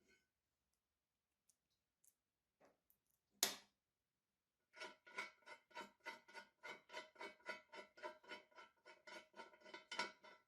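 A single sharp click, then about a second later a fast, even run of scraping strokes, roughly five a second, with a ringing tone under each stroke, as of a hand tool worked back and forth over a metal part.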